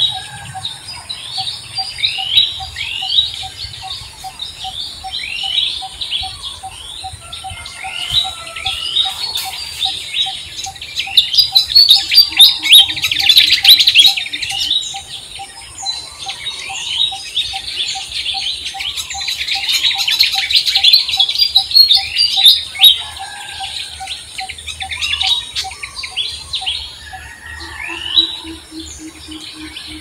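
Many small birds chirping in a busy chorus of quick down-slurred notes, thickest about a dozen seconds in and again about twenty seconds in, over a steady fast ticking call during the first half.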